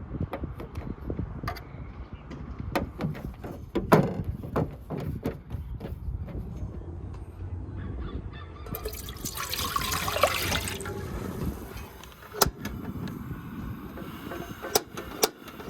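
Cooking work: scattered clicks and knocks of utensils and cookware, with a couple of seconds of pouring, splashing water about nine seconds in.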